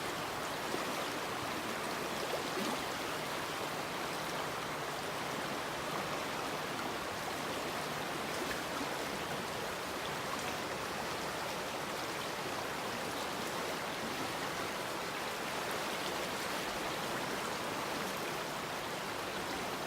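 Hoh River water flowing, a steady even rush.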